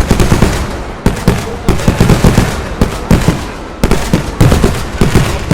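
Festival fireworks going off in a rapid barrage: crackers banging many times a second in bursts, with heavier bangs among them.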